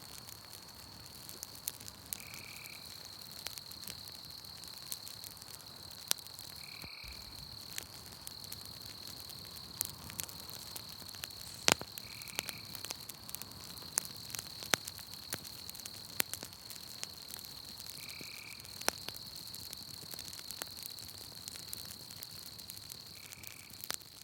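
Campfire crackling, with scattered sharp pops, over a steady high-pitched insect trill; a frog gives a short call about every five seconds.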